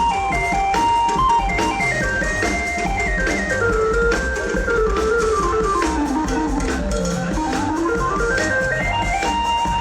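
Live highlife gospel band music: a keyboard lead line steps down in pitch through the middle and climbs back up near the end, over a steady drum beat.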